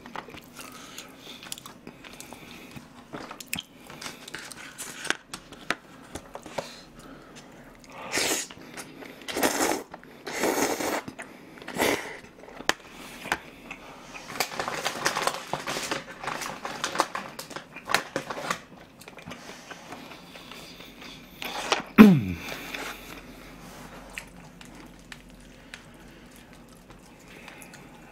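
Close-miked eating sounds: a person chewing a mouthful of jajangmyeon noodles, with wet mouth clicks and irregular bursts of chewing. Later on there is one short, loud, low vocal sound that falls in pitch.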